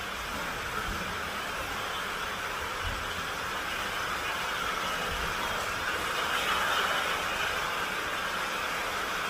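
Heavy rain falling steadily, an even hiss that swells a little about six seconds in.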